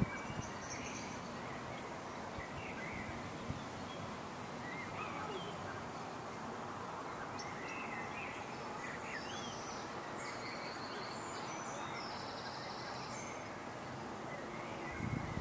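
Small birds chirping and calling over a steady outdoor background hiss, with a cluster of higher calls about two-thirds of the way through.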